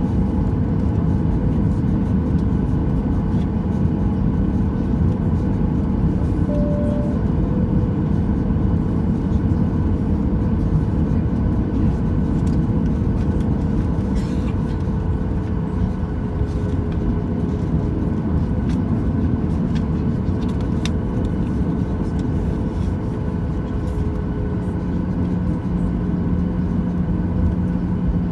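Cabin noise of a Boeing 737-800 with its CFM56-7B jet engines running at low power: a steady rumble with a constant engine whine whose pitch drifts slightly lower.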